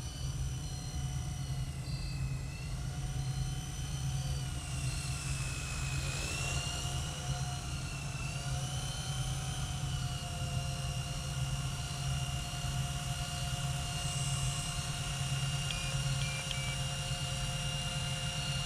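Blade 120 S2 micro RC helicopter's electric motor and rotors whining in a hover. The pitch dips and rises a few times in the first half as the throttle and controls change slightly, then holds steady once the trimmed helicopter sits in one spot.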